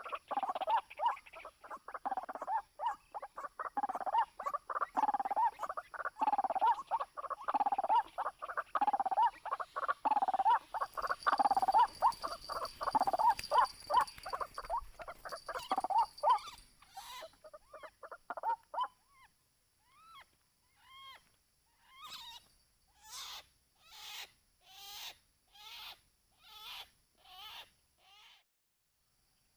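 White-breasted waterhen calling: a fast, dense run of repeated notes, then from about halfway through a slower series of sharper calls about one a second, which stop shortly before the end.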